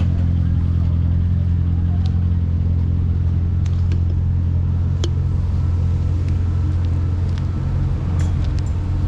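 An engine running steadily at one unchanging speed, a constant low hum, with a few faint clicks over it.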